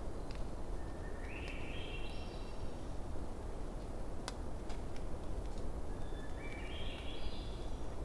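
A wood campfire crackling, with scattered sharp pops over a steady low rumble. A bird gives a call twice, each one a short call that climbs in steps.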